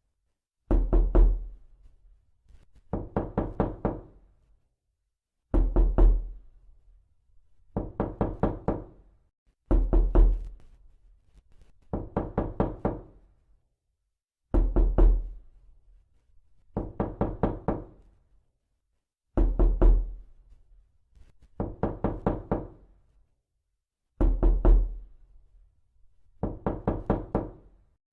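Repeated knocking: quick runs of several knocks, each run lasting about a second and fading, repeating about every two seconds with silence between.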